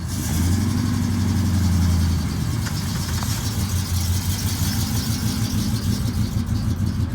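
Car engine running at idle, a little louder for the first two seconds, then settling into an even, pulsing idle.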